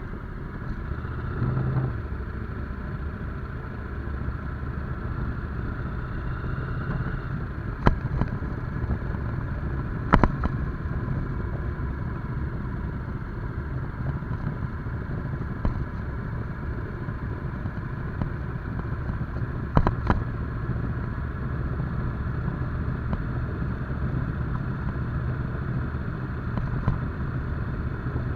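Motorcycle engine running steadily while riding, with a few sharp knocks or clatters standing out over it.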